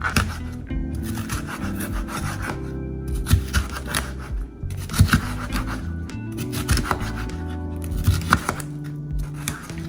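A knife cutting bell peppers on a cutting board, with a few irregular knocks of the blade on the board, over background music.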